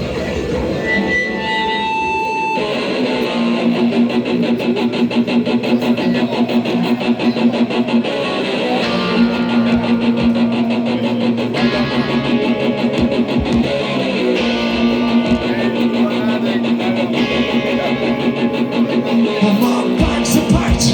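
Live rock band playing a song's instrumental introduction: strummed guitars in a steady rhythm over a held low note.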